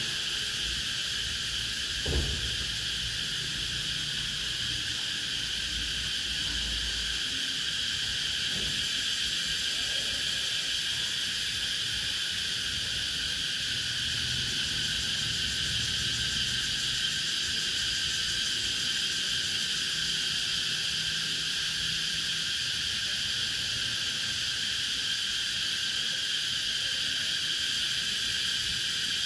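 Cicadas singing in a steady, unbroken chorus. A brief thump sounds about two seconds in.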